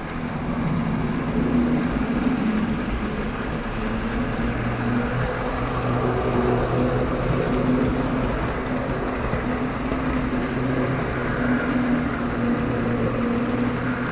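Lionel O-gauge model train running on its track: a steady electric motor hum with the rolling rumble of wheels on rail.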